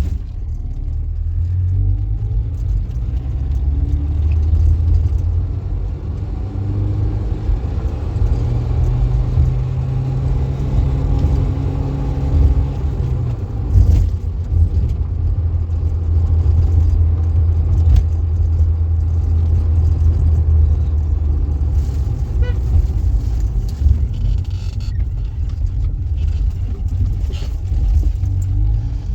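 A vehicle's engine running steadily as it drives, a low rumble whose pitch shifts every few seconds, with a couple of brief knocks.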